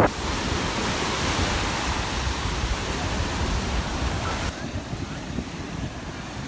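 Surf washing up on the beach, a steady hiss of water that drops away suddenly about four and a half seconds in. Wind rumbles on the microphone throughout.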